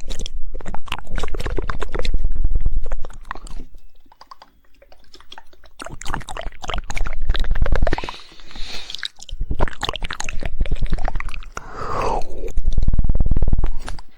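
Close-miked ASMR mouth sounds: rapid 'woodpecker' tongue clicking in several fast bursts, some so quick they run together into a rattle, mixed with wet clicks of the mouth.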